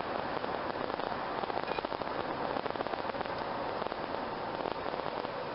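Steady crackling hiss of road and tyre noise inside a minivan cruising at highway speed.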